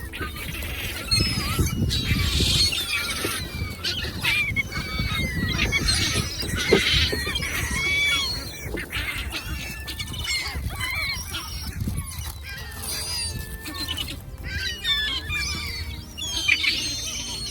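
A flock of birds calling over one another: many short, high calls overlapping throughout, with a low rumble of wind on the microphone underneath.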